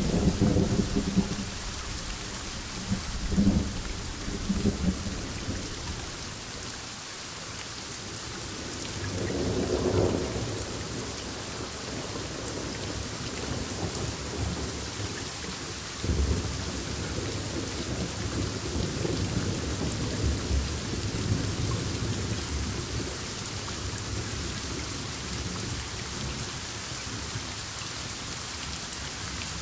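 Heavy rain falling steadily through a thunderstorm, with thunder rumbling several times: a burst of crashes at the start, a swelling roll about ten seconds in, and a sudden rumble about sixteen seconds in that rolls on for several seconds.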